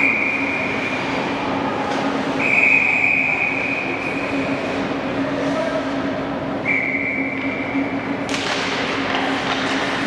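Basketball shoes squeaking on a gym floor in three long, steady high squeals. A sharp thud comes about eight seconds in, over a steady hum in the gym.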